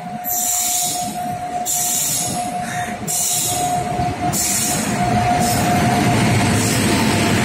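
Electric locomotive arriving at a platform and passing close: a steady high whine, with a rumble of wheels on rail building up about halfway through.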